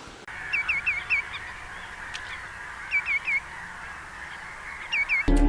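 Greenshank calling: clear, ringing whistled notes in quick runs of four, then three, then two, over a steady background hiss. Music comes in suddenly right at the end.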